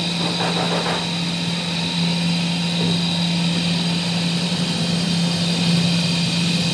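Steady drone of a running machine motor, an even hum that holds one pitch throughout, with a brief rougher patch about a second in.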